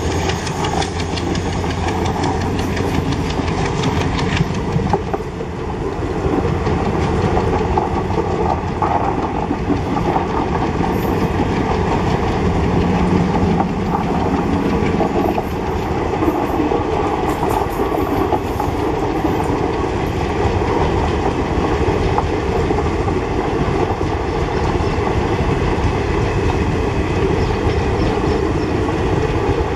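ALCO diesel locomotive running with a train, a steady loud mix of engine and rail noise.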